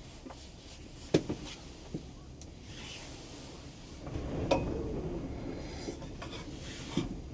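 A few sharp knocks and clicks of things being handled, over a low rumble that swells about four seconds in.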